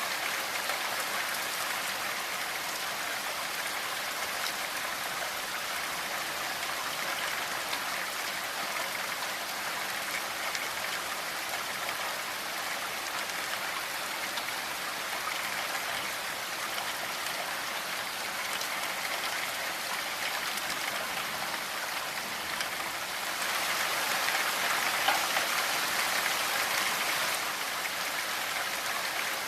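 Steady rainfall, an even patter of drops, swelling a little louder for a few seconds near the end before settling back.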